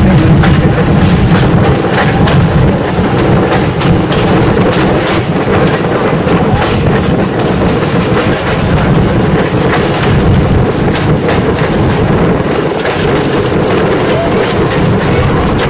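Passenger train coaches rolling along the track at speed: a steady rumble with repeated sharp clicks of the wheels over the rails, heard from an open coach window.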